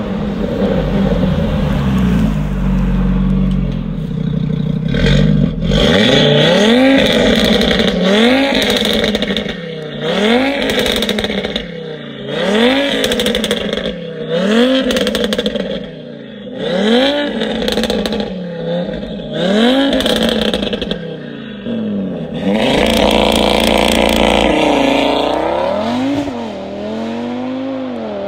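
Audi TT RS's turbocharged five-cylinder engine, tuned to 660 hp, revved again and again while standing: about ten quick blips, each rising and falling in pitch. Near the end it is held high for a few seconds, then rises again as the car accelerates.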